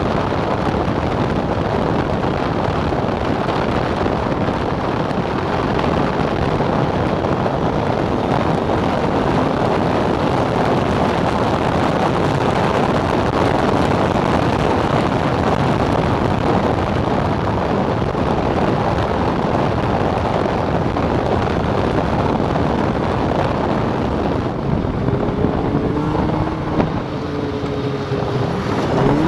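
Snowmobile engine running at speed, mostly buried under heavy wind rushing over the microphone. Near the end the wind drops and the engine's pitch can be heard rising and falling.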